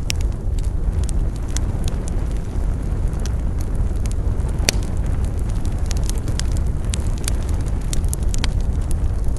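Campfire burning with a steady low rumble and scattered sharp crackles and pops from the burning wood, one louder snap a little past the middle.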